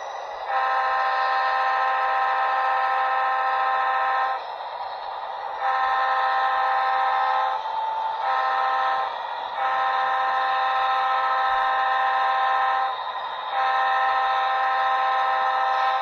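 Sound-equipped HO scale SD40-3 model diesel locomotive sounding its recorded multi-chime air horn in five blasts, the third short and the others long, over the steady running sound of its prime mover.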